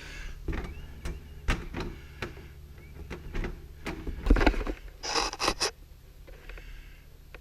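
Clicks, knocks and scrapes of a solid garage door being handled on its hinges as it is rehung. A louder knock comes about four seconds in, and a short scraping rasp about five seconds in.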